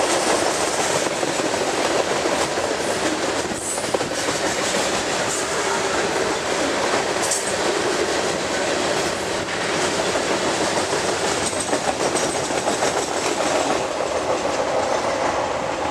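Freight cars of a passing CSX manifest train, mostly loaded tank cars, rolling by: a steady rumble and rattle with the steel wheels clicking rhythmically over the rails.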